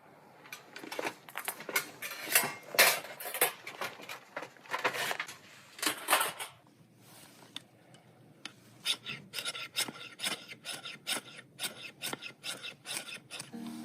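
A blade scraping and cutting into wood in repeated strokes: longer strokes in the first half, then after a short pause quicker, shorter strokes at about two or three a second.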